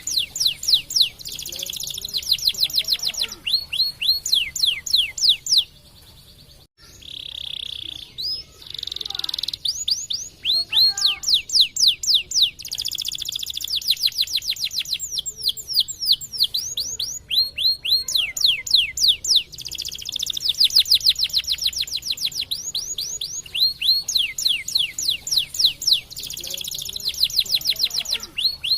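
Domestic canary singing: long, rapid trills of quickly repeated high sweeping notes, with a brief pause about six seconds in before the song carries on.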